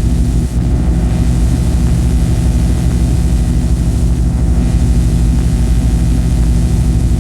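Experimental noise recording: a loud, steady drone made of stacked low hum tones with a haze of hiss above, like a heavy engine running, dipping briefly about half a second in.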